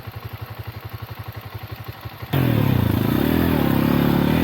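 Lifan Xpect motorcycle engine idling with an even low pulse, then about two seconds in it is suddenly revved hard, its pitch rising and falling back.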